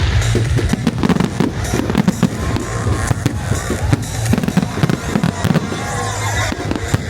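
A fireworks display with many rapid bangs and crackles going off one after another, over music playing at the show.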